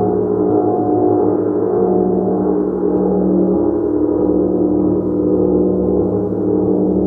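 A gong played continuously: a dense wash of many overlapping sustained tones at a steady level, with no distinct separate strikes.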